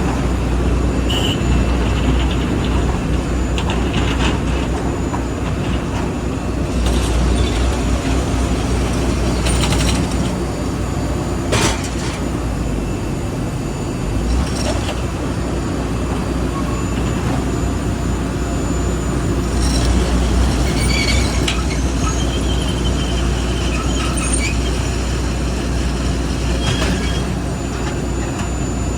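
Steady low engine rumble of aircraft ramp machinery during cargo unloading of a Boeing 737, with scattered metallic clanks and knocks, one louder knock about twelve seconds in.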